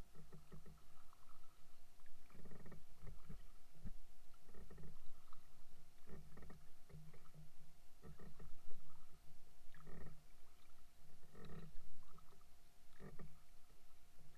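Kayak paddling: the paddle blades dip and pull through the water in a regular rhythm, one stroke about every one and a half to two seconds.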